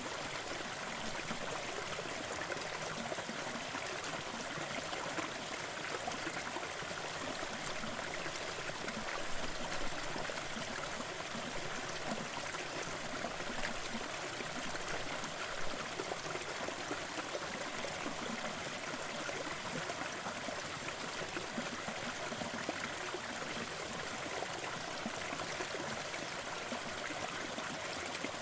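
Waterfall: a steady rush of falling water, with small splashes flickering through it.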